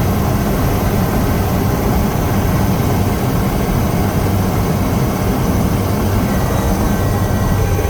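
Helicopter running in flight, heard from inside the cabin: a loud steady drone with a low hum and a thin high whine.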